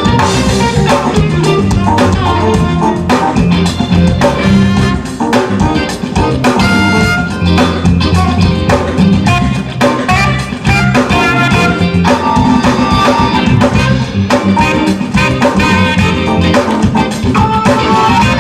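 A band playing an instrumental groove at a sound check: drum kit keeping a steady beat under a strong bass line, with guitar and keyboard parts on top.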